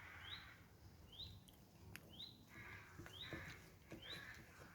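A bird calling over and over, a short rising note about once a second, faint against quiet woodland.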